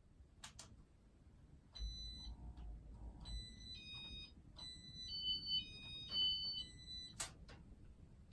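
Casablanca Inteli-Touch wall control beeping as its buttons are pressed: a click, then a run of short electronic beeps at several different pitches, with another click near the end.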